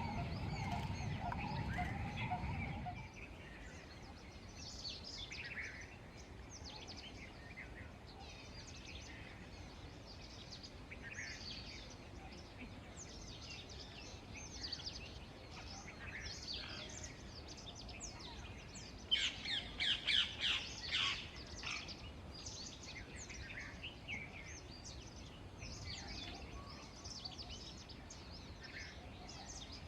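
Several wild birds chirping and calling with short high notes, with a quick run of louder calls about twenty seconds in. A low, muffled sound underlies the first three seconds.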